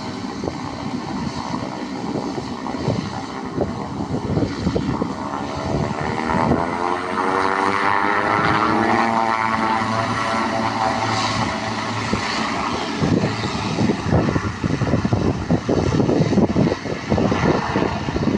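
Turboprop airliner's engines running as it moves past, growing louder with a sweeping, shifting whine in the middle; from about two-thirds in, gusts of wind buffet the microphone.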